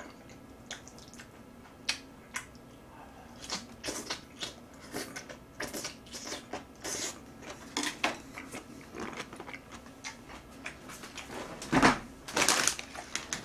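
Close-miked eating: a person chewing and smacking on a mouthful of food, heard as many short irregular clicks. A louder knock comes about twelve seconds in, followed by a burst of further clicks.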